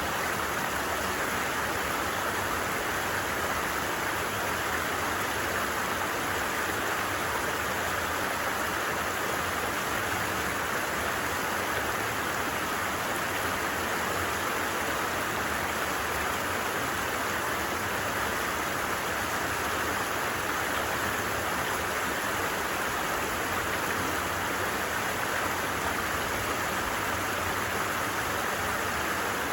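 A stream babbling steadily, an even rush of flowing water.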